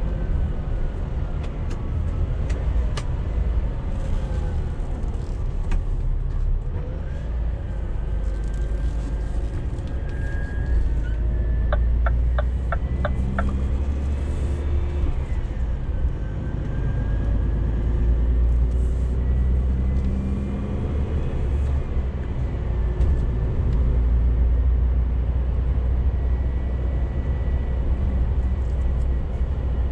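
Scania G410 CNG truck's 13-litre methane gas engine running under way, a steady low rumble with faint tones that slowly rise and fall as road speed changes. About twelve seconds in, a short run of six quick even ticks sounds.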